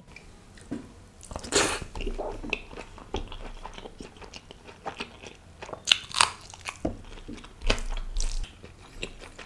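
Close-miked eating: a man chewing a mouthful of rice and mutton, with wet smacking and several sharp crunches, the loudest about 1.5 s in and around 6 and 8 s in.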